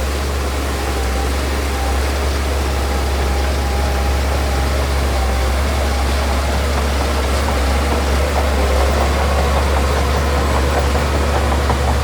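Heavy diesel engine of earthmoving machinery running steadily, with a deep, continuous low drone. A busier, clattering texture joins in over the last few seconds.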